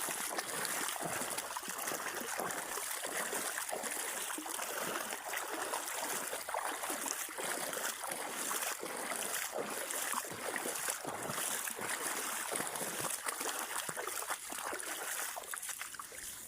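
Water splashing and trickling steadily with many small crackling splashes, fading away near the end.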